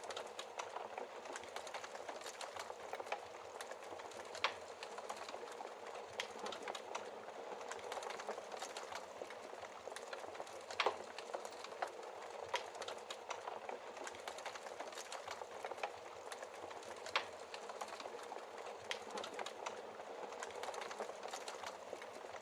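Wood fire burning in a fireplace: a steady hiss of flames with frequent sharp crackles and pops from the logs, a few louder snaps scattered through.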